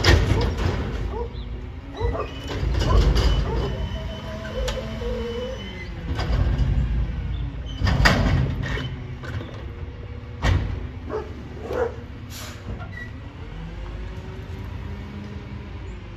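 Peterbilt 520 garbage truck working, its engine running under a whining hydraulic system that rises and falls, with several loud metallic bangs and clanks from the lift and body.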